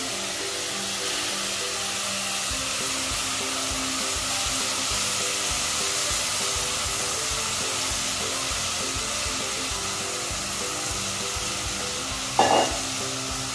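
Steady sizzling from vegetables frying in a stainless steel pot, with faint background music underneath.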